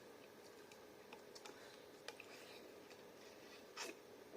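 Near silence: quiet room tone with a few faint clicks and one short soft noise near the end.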